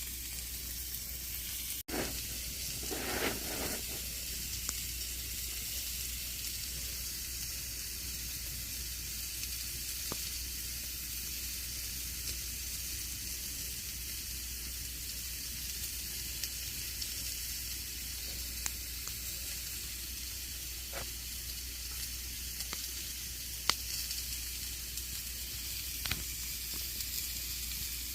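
Campfire burning: a steady hiss of burning wood with scattered sharp crackles and pops. The sound cuts out for an instant about two seconds in, followed by a brief louder rustle, and a few sharper pops come near the end.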